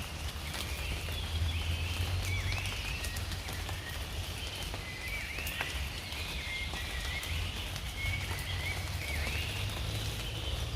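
Repeated short chirping calls from small animals, each a quick swoop in pitch, over a steady low rumble with scattered sharp ticks.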